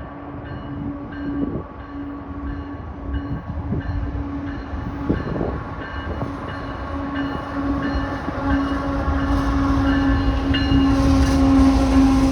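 Train approaching and getting louder, its rumble building toward the end, with a steady hum and a short ringing tone repeating about twice a second.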